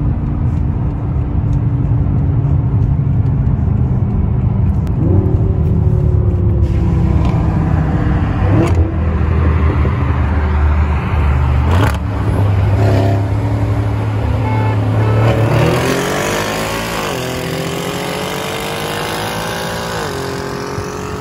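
Inside the cabin of a stage-2 tuned BMW M5 F10 Competition, its twin-turbo V8 pulls at full throttle. The pitch climbs steadily and drops sharply at each of several quick upshifts.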